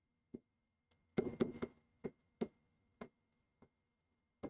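Pen tapping against a writing surface while writing: about nine short, irregular taps, with a quick cluster of three a little over a second in.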